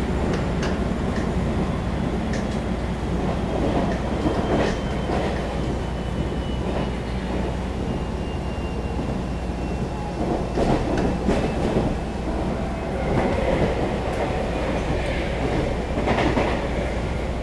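Running sound of a Taiwan Railway EMU700 electric multiple unit at speed, heard from inside the carriage: a steady rumble of wheels on rail with scattered clacks over rail joints, and a faint high tone that falls slowly over several seconds.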